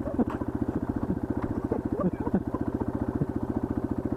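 Single-cylinder dual-sport motorcycle engine idling with a steady, even pulse.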